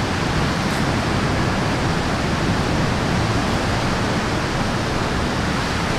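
Steady, even rushing noise throughout, with no distinct events.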